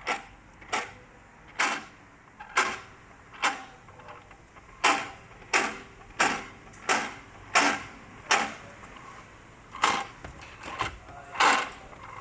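Gearbox main shaft being turned by hand, giving a sharp metallic clack with a short ring about once a second, a dozen or so times: the sound of a worn gear in the gearbox.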